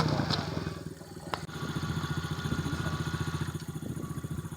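Small dirt bike engine running: louder and falling in pitch at the start as it eases off, then a steady low-speed chug.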